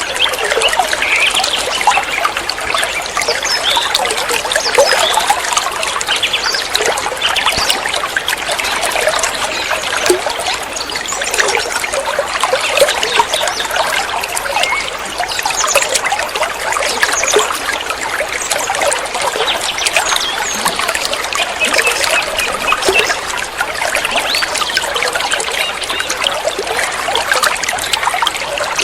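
Running water trickling and splashing steadily, a continuous dense patter with no pauses.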